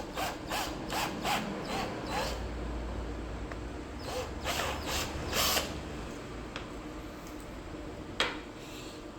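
Small drill boring a hole in a plastic inkjet cartridge: a quick run of short scraping strokes, then a second cluster a few seconds later, with one sharp click near the end.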